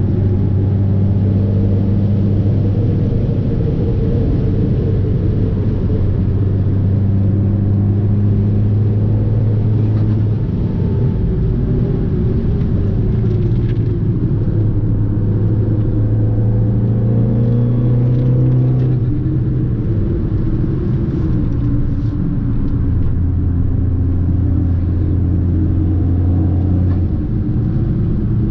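Fiat 500 Abarth's turbocharged four-cylinder engine pulling steadily on the road. Its pitch holds for a while, climbs slowly over several seconds past the middle, then drops back and settles lower near the end.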